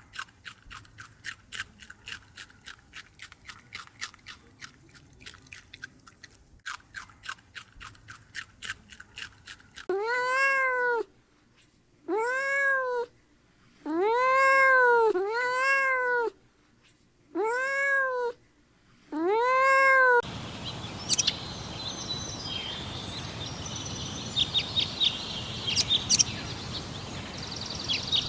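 A domestic cat meowing six times in a row, each meow drawn out and rising then falling in pitch. Before the meows comes a run of rapid faint clicks, and after them a noisier stretch with sharp high-pitched calls.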